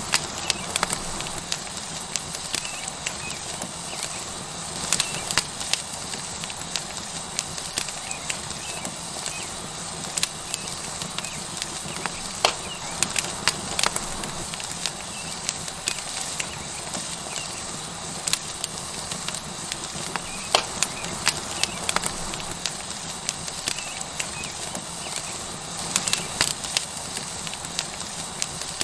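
Tomahawk steak sizzling on a hot rock over a wood fire: a steady sizzle, broken by frequent irregular sharp crackles and pops.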